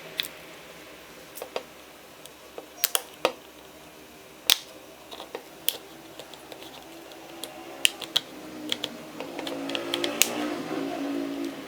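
Irregular sharp clicks and light taps of hand tools and plastic parts on a Samsung Galaxy A13 smartphone being taken apart. A faint low hum comes up over the last few seconds.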